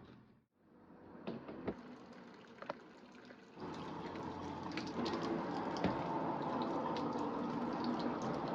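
A few light clicks and knocks, then about three and a half seconds in, tap water starts running steadily into a sink, with small splashes and clinks in the stream.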